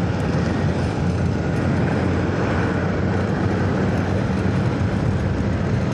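Honda Activa scooter under way at speed: steady wind rush on the microphone with the engine's low hum and road noise underneath.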